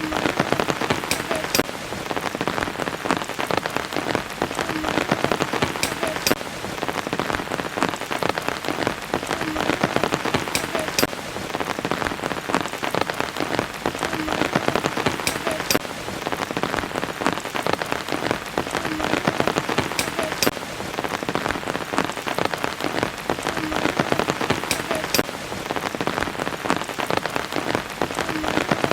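Steady rain falling, many close drops ticking on surfaces. The same pattern comes round about every five seconds, as in a looped recording.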